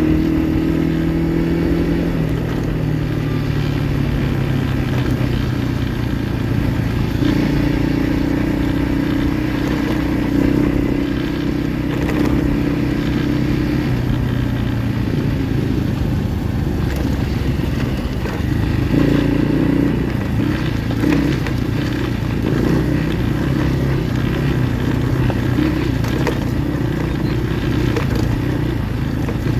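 Kayo pit bike engine running under way, its pitch stepping and wavering up and down as the throttle changes, with rattling and scraping from the ride over rough ground.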